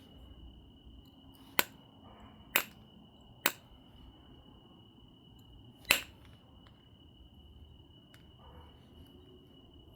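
Obsidian being knapped: four sharp, glassy clicks as flakes come off the biface, the loudest near the middle. A faint steady high tone runs underneath.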